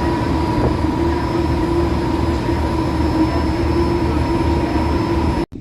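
A public transport vehicle running steadily, with a low rumble under a constant high whine and a lower hum. The sound cuts off abruptly near the end.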